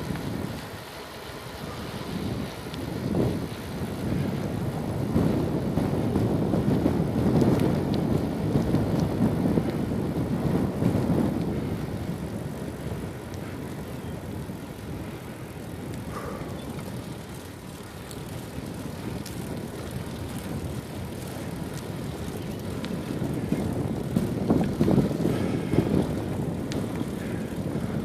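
Wind rumbling on the microphone of a camera carried on a moving bicycle, with rolling tyre noise; the rumble swells and eases several times.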